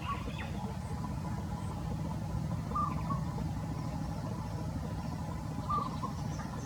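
Steady low rumble, with a bird's short high chirp twice, about three seconds apart.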